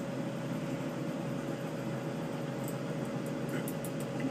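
Lampworking torch flame running with a steady hiss while a glass bead is melted, over a steady hum.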